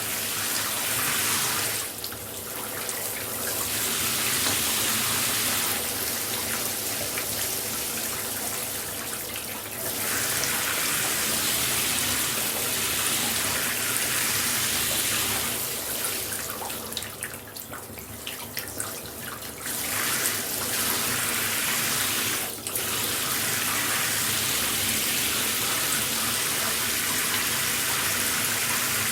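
Shower spray running, a dense, steady hiss of falling water. Several times it turns duller and quieter for a few seconds, most clearly in the middle, with one short dip a few seconds later.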